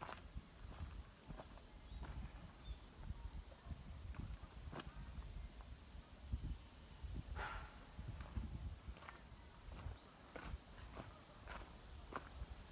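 Footsteps on a forest trail at an even walking pace, about one to two steps a second, over a steady high-pitched drone of insects.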